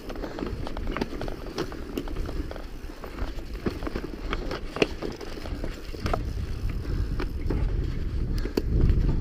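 Mountain bike riding fast over a rough dirt trail: tyre rumble with many scattered rattling clicks from the bike over bumps. Wind on the microphone grows louder in the second half.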